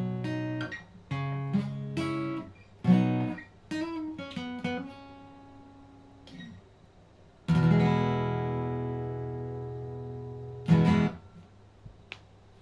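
Acoustic guitar closing a song: several strummed chords, then a few lighter picked notes with a slide. About seven and a half seconds in a final chord is strummed and left to ring and fade for about three seconds, then a short sharp strum cuts it off.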